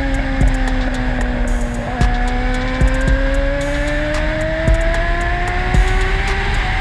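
Motorcycle engine running at road speed, its pitch dipping slightly and then climbing slowly, with music underneath and a few sharp knocks.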